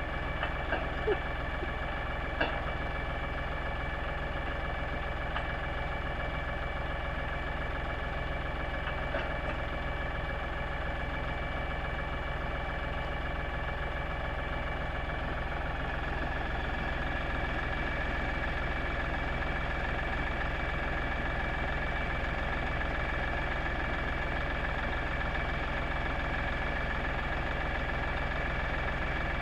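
LS compact tractor's diesel engine idling steadily, with a few light clicks in the first few seconds.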